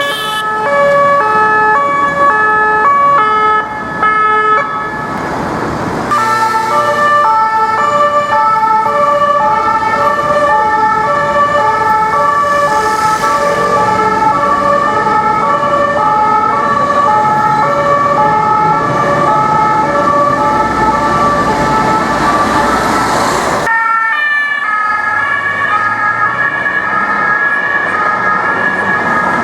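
Paris police emergency vehicles sounding two-tone sirens that alternate between two pitches, several sirens overlapping at once over traffic noise. About six seconds before the end the traffic noise drops away and a steadier siren tone holds.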